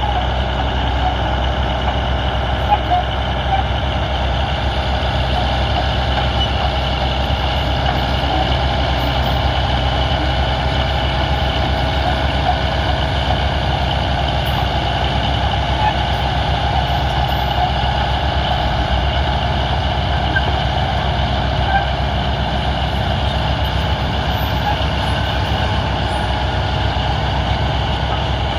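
Diesel engine of heavy earthmoving machinery running steadily under work.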